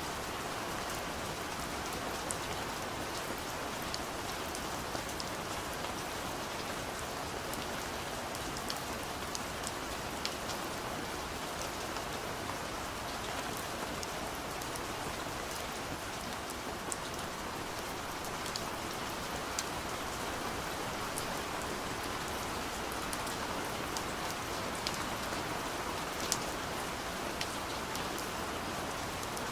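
Steady gentle rain falling on a window, an even hiss with scattered sharp drop ticks on the glass.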